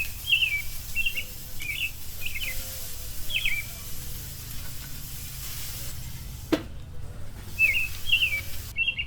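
Small birds chirping: quick, high, bending chirps in two bouts, with a gap in the middle and a single sharp click about six and a half seconds in, over a steady low hum.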